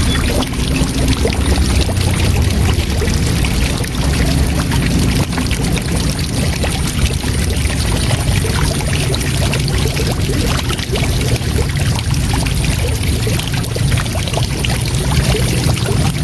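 Waterfall: a steady rush of falling water with a heavy low rumble underneath.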